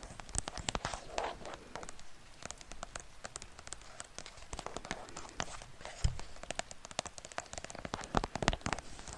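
Close-miked ASMR trigger sounds: rapid, irregular clicks and taps, a few with a dull low thump, over a faint hiss.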